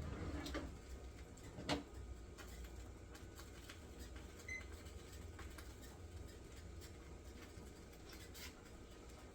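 Quiet kitchen with a steady low hum, a few light clicks at the start and one sharp knock just under two seconds in, then a brief faint high tone.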